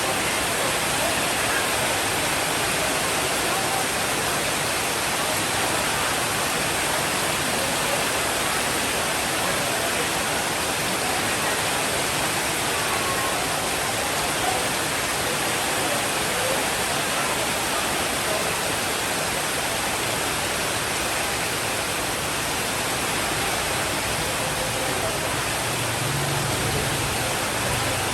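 Steady, even rainfall with no breaks or single drops standing out, and a faint low rumble near the end.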